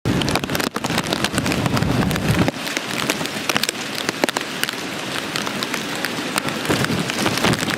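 Heavy hurricane rain pelting a surface, thick with sharp drop impacts, with a low rumble under it that drops away about two and a half seconds in.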